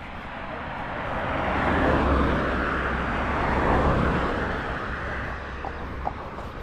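Cars driving past one after another, engine and tyre noise swelling to two peaks about two seconds apart and then fading away.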